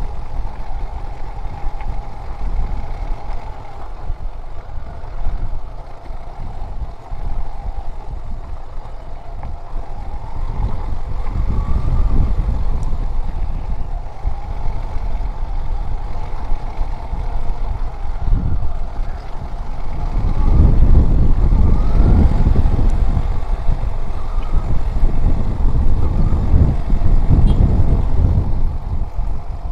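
Small single-cylinder motorcycle engine running on the move, its pitch rising and falling with the throttle. Wind buffets the microphone throughout, getting heavier about two-thirds of the way through.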